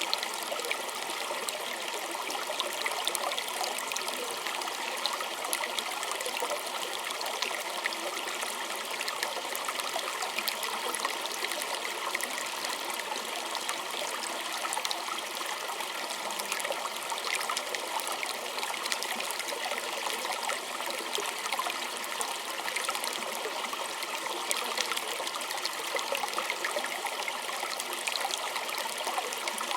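A small stream of water running and trickling over stones, a steady splashing full of fine droplet ticks with little low rumble.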